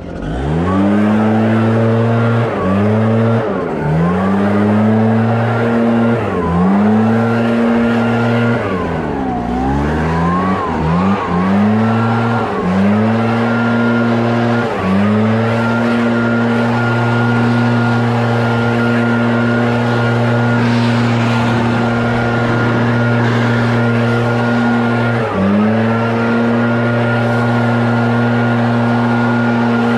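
Small gas engine running at high revs, held steady with repeated brief throttle drops that ramp back up, the way a landscaping power tool such as a leaf blower or string trimmer is worked. It starts abruptly.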